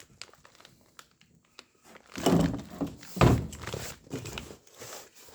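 Knocks and thuds on a wobbly work table as parts are handled on it, with two heavy thuds about two and three seconds in; the table jiggles, shaking the phone that is filming from a stand on it.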